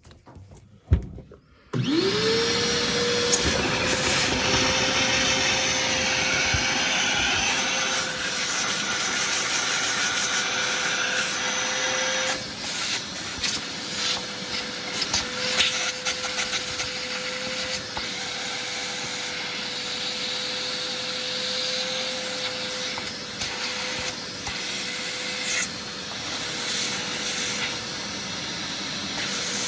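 A vacuum cleaner switched on about two seconds in, its motor pitch rising quickly and then holding steady, with scattered rattles as it sucks built-up gunk out of the furnace's collector box and its ports.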